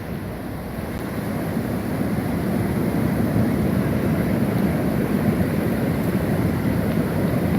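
Rushing water of a small river waterfall: a steady, deep roar that grows a little louder over the first two seconds and then holds level.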